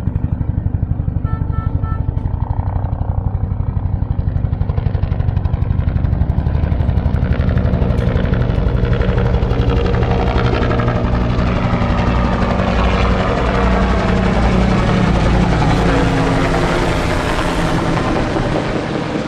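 Deuce-and-a-half military truck's engine running with a steady, fast beat. A rising hiss builds over the middle and falls away shortly before the end.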